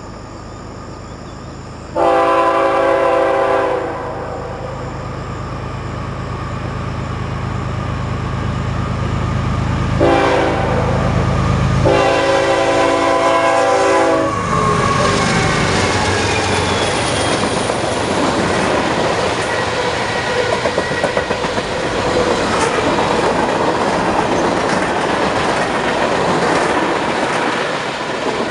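Diesel locomotive horn sounding three times, a long blast, a short one and another long one, over the building rumble of the locomotive's engine as the train approaches. After the horn the train passes close by, its wheels clattering steadily over the rails.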